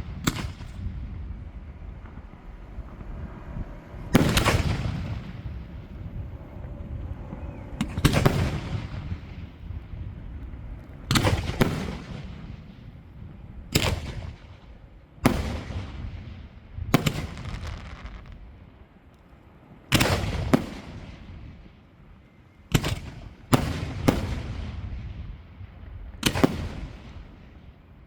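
Aerial fireworks shells bursting: about a dozen sharp bangs a few seconds apart, some in quick pairs, each dying away over a second or two.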